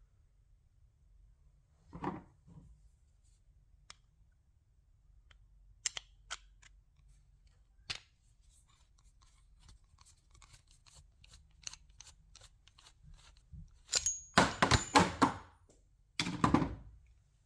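Hand paint scraper working old paint off a surface: scattered light ticks and clicks of paint and tool, a single short stroke about two seconds in, then a quick run of loud scratchy strokes near the end followed by one more.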